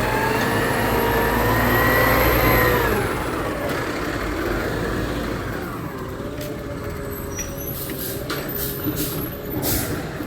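Garbage truck engine revving up and easing back down, then running steadier with a few short hisses and clanks near the end.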